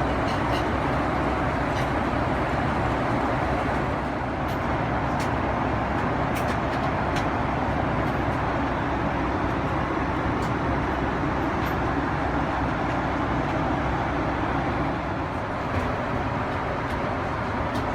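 Steady rushing cabin noise inside a Boeing 777-300ER airliner, with a few faint small clicks.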